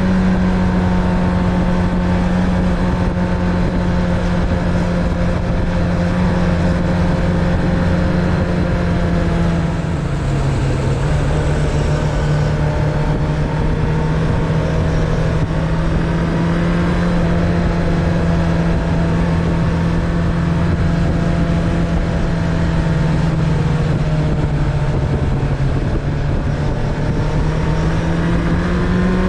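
Suzuki Bandit 600's inline-four engine running at steady cruising revs under way. Its note drops about ten seconds in, holds lower, then climbs again near the end.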